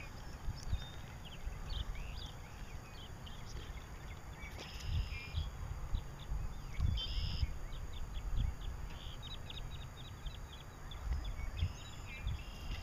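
Songbirds calling repeatedly, with short chirps and a quick run of chirps about eight seconds in, over a low rumble of wind on the microphone.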